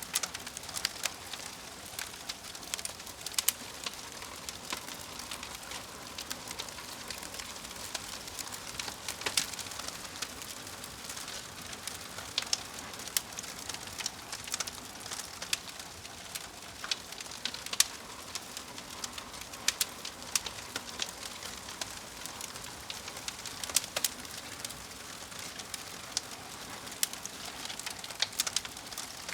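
Wood fire crackling: frequent irregular sharp pops and snaps over a steady soft hiss of burning.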